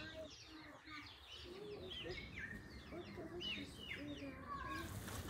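Songbirds chirping repeatedly in short, quick downward-sweeping calls, with children's voices faintly underneath now and then.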